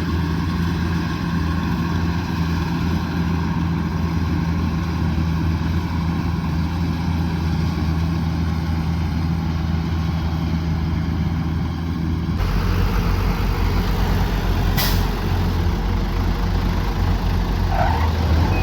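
Kubota DC108X combine harvester's diesel engine running steadily under load. The sound changes abruptly about 12 seconds in to a heavier, rougher rumble, and there is a brief sharp click a little later.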